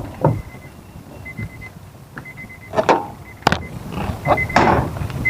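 A short, high electronic beep repeating every half-second or so, with rustling and clunks of someone moving about in a car, and a sharp knock about three and a half seconds in.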